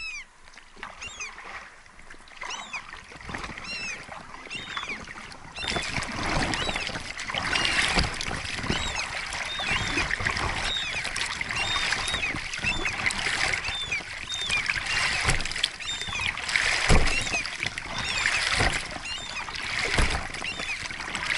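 A small bird chirping over and over. About six seconds in, a steady hiss of rain falling on the water and the inflatable boat sets in, with a few dull knocks from the boat and its plastic oars.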